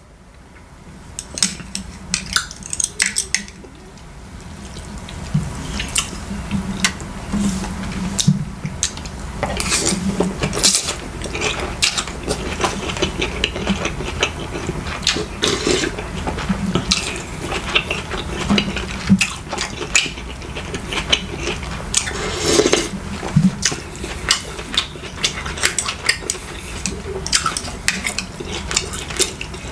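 Metal cutlery clinking and scraping against dishes in many short, irregular clicks, with some stirring of liquid, during a meal eaten close to the microphone.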